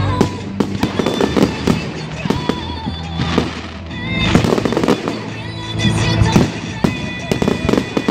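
Fireworks display: a rapid run of sharp bangs and crackles from bursting aerial shells, several a second, over music playing throughout.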